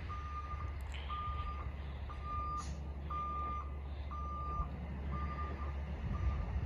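Reversing alarm of a Peterbilt McNeilus side-loader garbage truck beeping about once a second at one steady pitch, the last two beeps fainter. Under it is the truck's steady low engine rumble.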